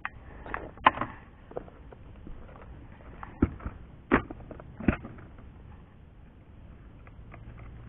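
Handling of fishing tackle while changing lures: a string of sharp clicks and knocks, about eight in the first five seconds, then only a faint background.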